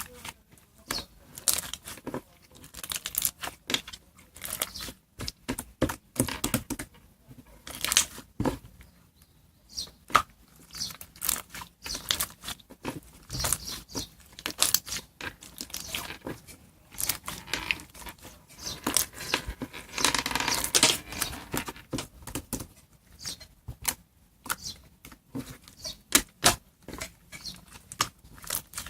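Slime with mixed-in toppings being squished and pulled apart by hand: irregular sticky pops, crackles and tearing sounds, busiest about two-thirds of the way through.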